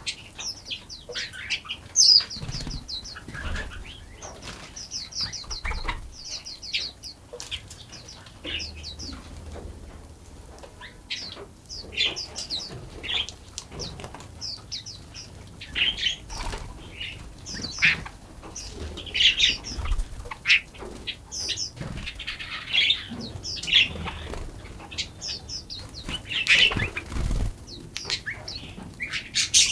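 Several songbirds chirping and singing in quick, short notes and trills, overlapping throughout, with a few low thumps here and there.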